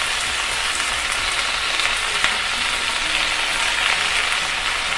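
Fresh gongura (sorrel) leaves frying in a pan of hot oil and browned garlic: a steady sizzle with fine crackles as the leaves wilt, cooked without added water.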